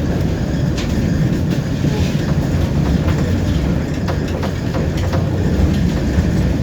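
Tram running along the track, heard from inside the car: a steady low rumble of wheels and motors, with a few irregular clicks from the wheels over the rails.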